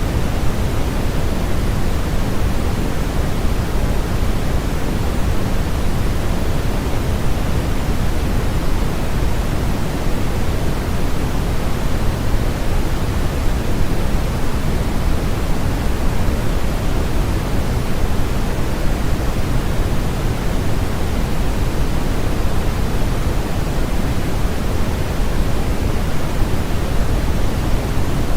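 Steady sleep-aid noise, a constant even hiss with no changes or breaks. It is fuller in the low end than in the highs, so it sounds like a soft rushing rather than a thin, bright static.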